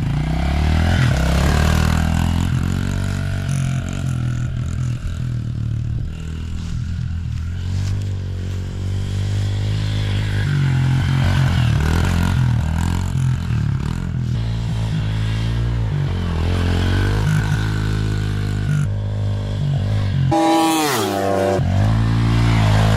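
110cc four-stroke dirt bike engines revving hard around a track, the pitch climbing and dropping over and over as they accelerate and back off through the gears. A sharp rising rev comes near the end.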